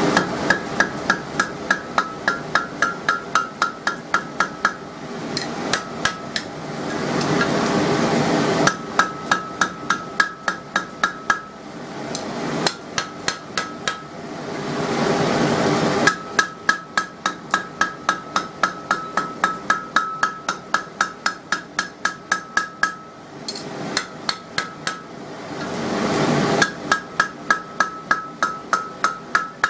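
Hand hammer striking hot steel on an anvil in fast runs of about three to four blows a second, each blow with a ringing note, as a punched hole in a steel bar is stretched over the anvil horn to widen it. Between runs a steady rushing noise from the coke forge's air blower fills in.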